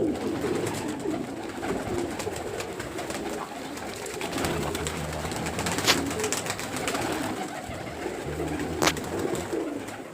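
Several domestic pigeons cooing together in a loft, a continuous overlapping rumble of coos, with two sharp clicks about three seconds apart past the middle.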